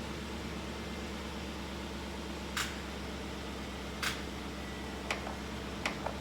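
Vehicle engine idling steadily, with a few short sharp clicks about two and a half, four and five seconds in.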